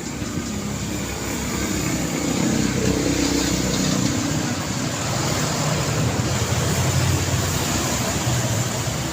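Steady road traffic: cars and other vehicles passing, engine hum and tyre noise, swelling a little about two seconds in.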